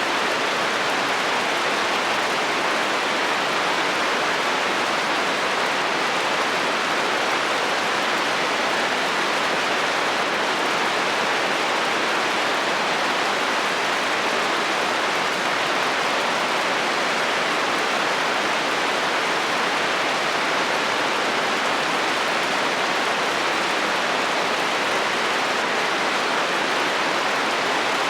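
Steady rain drumming on a metal roof, an even, unbroken hiss.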